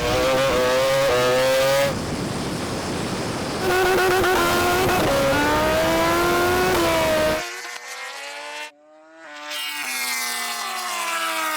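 Drag-racing vehicles at full acceleration, their engine pitch climbing and dropping back at each gear change in two loud spells. The sound cuts off abruptly about seven and a half seconds in. After a brief drop-out, the pitch falls steadily as they slow.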